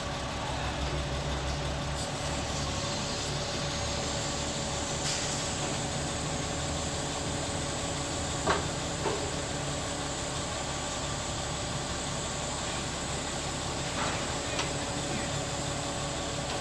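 Heavy diesel engine idling steadily, with a few sharp knocks over it: a loud one about halfway through and two lighter ones near the end.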